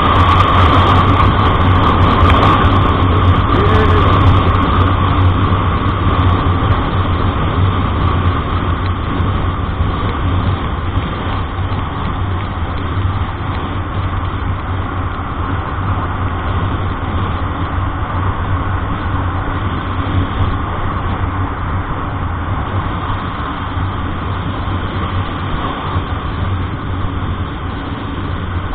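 Steady drone of a road vehicle's engine and road noise while driving, with a constant low hum that eases off slightly in the first several seconds.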